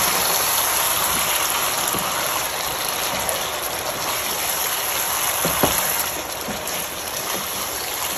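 Chicken curry with freshly added peppers and onion sizzling in a frying pan, a steady hiss, while a wooden spatula stirs it with a few soft scrapes.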